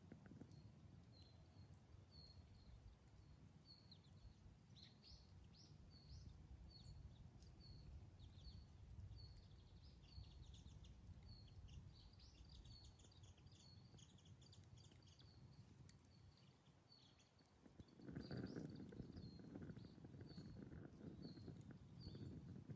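Campfire burning softly with scattered small crackles, under a low rushing hiss that grows louder near the end. A bird repeats a short high chirp at a steady pace throughout, with other birds calling briefly in the middle.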